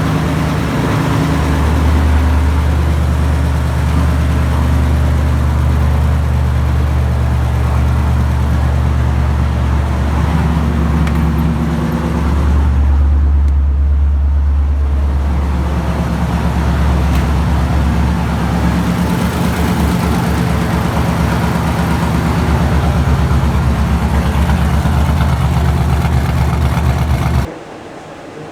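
Supercharged 6.0 LS V8 running on its first start after a rebuild with a new cam, mostly at a steady idle with a change in engine note about halfway through. The engine sound stops abruptly about a second before the end.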